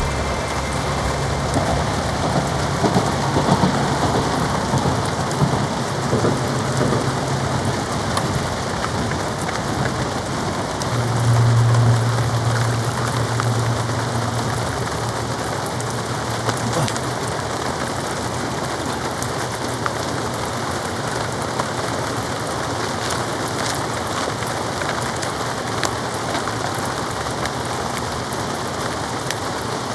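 Heavy rain beating on a polycotton (TC) tarp, a dense, steady patter of drops. A low hum runs underneath for the first several seconds and swells briefly about eleven seconds in.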